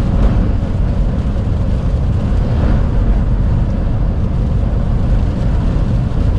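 Strong crosswind rushing and buffeting around a moving truck's cab, heard from inside the cab: a loud, steady low rumble that swells and eases a little.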